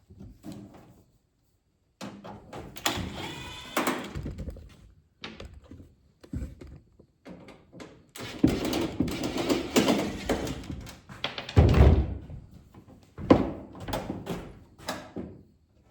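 Thunks, knocks and scraping as a microwave oven's metal casing and parts are handled and shifted during disassembly, with a heavy thump about twelve seconds in.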